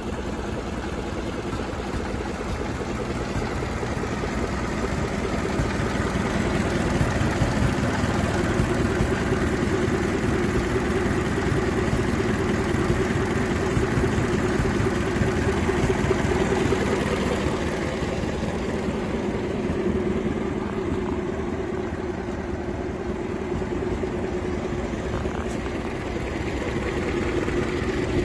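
1929 Lincoln Model L's flathead V8 engine running with a steady, even beat. It grows louder a few seconds in, settles back about two-thirds of the way through, and picks up again near the end.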